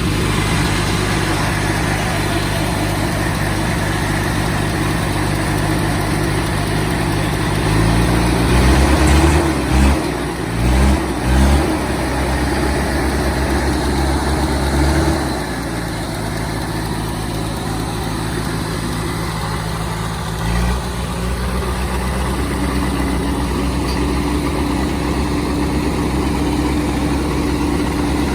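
Off-road vehicle's engine running at low revs. About a third of the way in it climbs and is blipped several times in quick succession, then drops back, with one more brief rise around two-thirds of the way.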